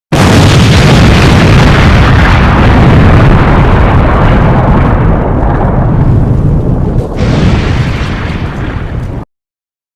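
Explosion sound effect: a loud blast that starts suddenly and rumbles on, fading slowly, then cuts off abruptly about nine seconds in.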